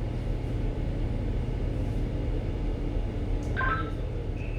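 Steady low machinery hum aboard a ship, with a brief cluster of high electronic tones about three and a half seconds in and a short beep near the end.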